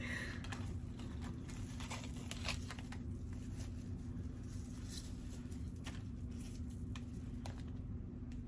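Faint handling noise of small objects: scattered light clicks and taps, a few a second, over a steady low hum.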